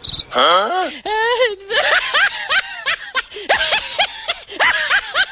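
High-pitched voices chattering and snickering, with quick rising and falling squeaky sounds and no clear words.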